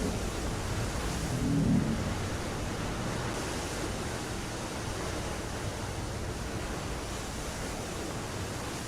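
Steady rushing sound of sea water and wind, with a brief low swell about a second and a half in.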